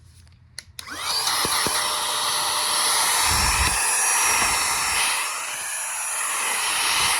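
Handheld cordless mini vacuum cleaner switched on with a click about a second in; its small high-speed motor spins up with a rising whine, then runs steadily with a loud airy hiss. A dull bump comes about three and a half seconds in.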